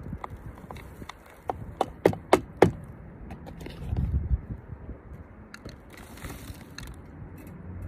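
A quick run of sharp clicks and knocks, about five in just over a second, followed about four seconds in by a brief low rumble.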